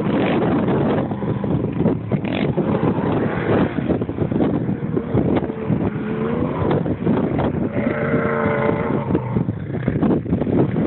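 A truck engine runs loud and rough, with wind on the microphone. A pitched note wavers for a second or two past the middle.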